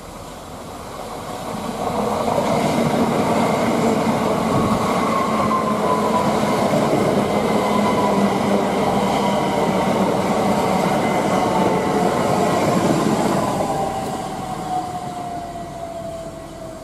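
Southeastern electric multiple-unit passenger train passing close by at speed: the rush of wheels on rail builds over about two seconds, holds for about ten, then fades away. A thin whine slides slowly down in pitch as the train goes by.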